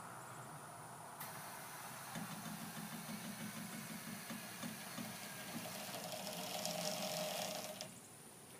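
A truck's air-ride suspension raising the truck from fully lowered to fully raised: air hisses in from a little over a second in, a low motor hum joins about two seconds in and grows slightly louder, and both cut off shortly before the end once the truck is all the way up.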